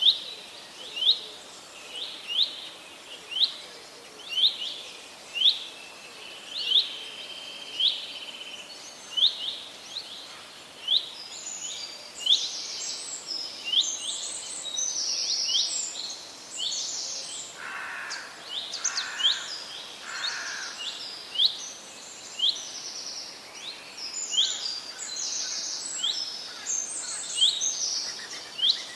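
Parrots calling: a sharp chirp repeated about once a second, joined after about eleven seconds by harsher, noisier screeching calls.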